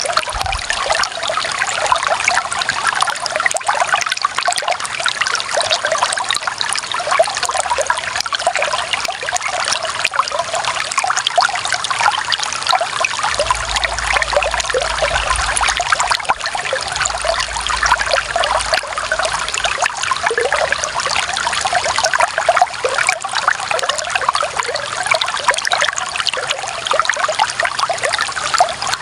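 Clear running water trickling steadily, a continuous even babble with no breaks.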